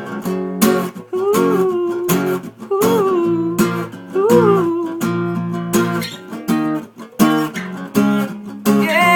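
Acoustic guitar strummed in a steady rhythm, with a voice singing a few short wordless phrases over it.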